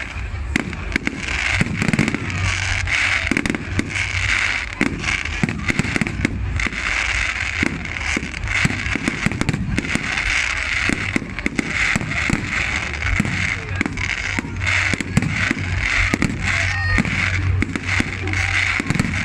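Fireworks going off continuously: dense sharp bangs and crackling, many overlapping, with no pause.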